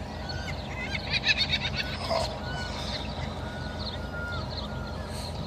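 Waterside birds calling, with a short burst of rapid chattering calls about a second in and scattered brief whistled notes around it, over steady low background noise.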